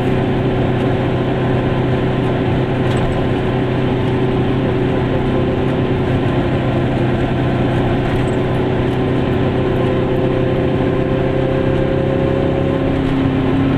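Goggomobil's air-cooled two-stroke twin engine running at a steady speed while driving, heard from inside the small car's cabin along with road noise.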